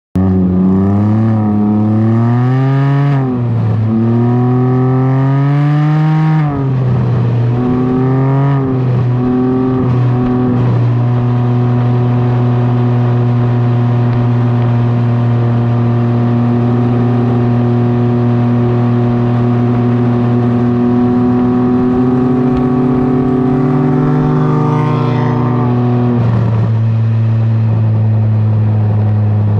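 Can-Am Ryker three-wheeler's engine through a BKD Insomnia series aftermarket exhaust, rising and falling in pitch as it accelerates for about the first ten seconds. It then runs at a steady pitch while cruising, and the pitch drops a little near the end.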